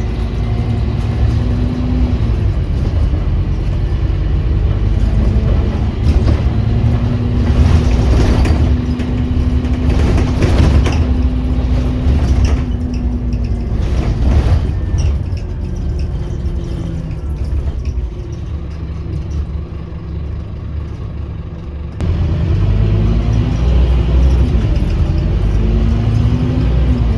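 Scania Omnicity bus's diesel engine and drivetrain heard from inside the bus, running under load with its pitch stepping up and down through the gears. A few short hissing noises come in the middle. The engine drops to a quieter, lower sound for several seconds, then pulls away hard again near the end.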